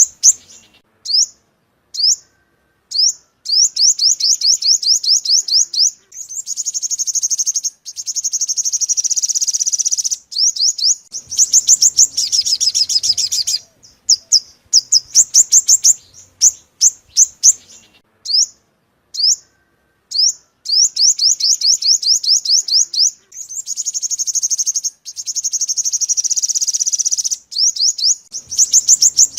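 Yellow-bellied sunbird song played as a bird-trapping lure call: rapid strings of high, sharp chips and fast trills, repeated in phrases a few seconds long with short pauses between them.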